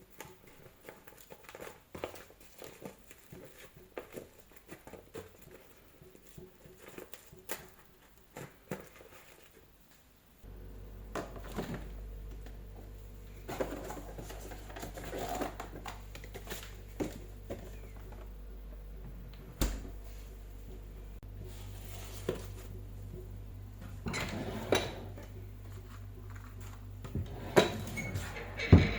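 Kitchen utensils and dishes being handled, with small clicks and clinks throughout and a few louder clatters. About ten seconds in, a steady low hum switches on, like a stove or range-hood fan, and runs on under the handling.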